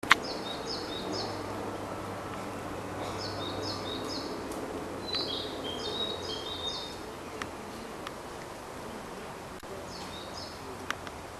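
A wild songbird singing short phrases of three or four quick, high, falling notes, repeated several times with pauses between, over a steady background hiss.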